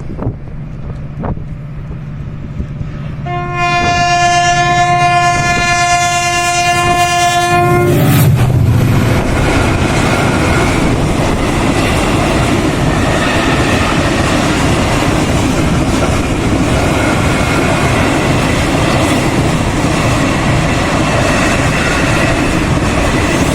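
A diesel freight train approaching, its engine humming, and sounding one long horn blast of about four and a half seconds that starts about three seconds in. The locomotive then passes close and the wagons roll by with a loud, steady rumbling noise.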